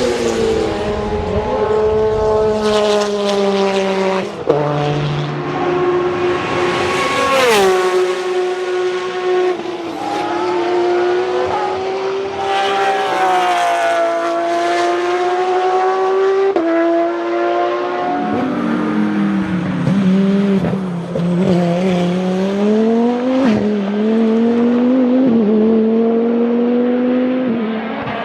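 Race car engines at high revs, the pitch climbing and then dropping sharply at each gear change, with some tyre squeal.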